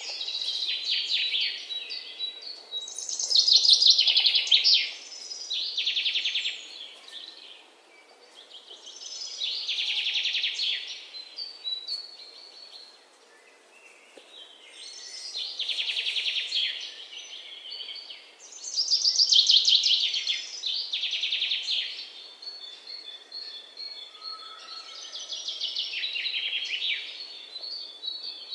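A songbird singing in repeated phrases of rapid trilled, chirping notes, each phrase lasting a few seconds with short quiet gaps between.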